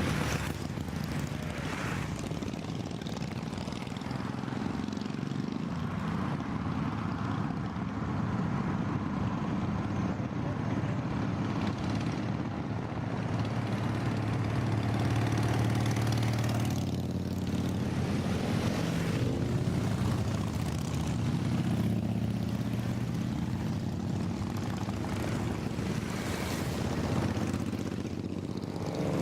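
Steady drone of motorcycle and vehicle engines with road and wind noise, swelling and easing several times as motorcycles pass.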